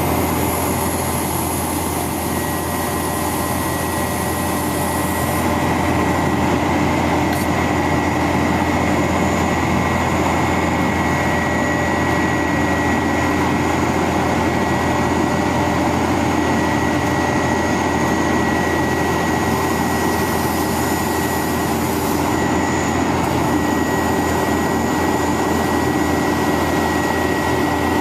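1999 International 4900 bucket truck running steadily, a constant engine hum with a thin, steady high whine over it.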